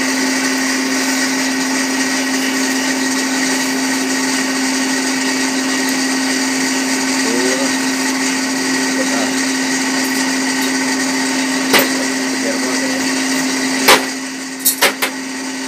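Electric blower set into the side of a forge furnace, humming and whirring steadily. A few sharp knocks come near the end.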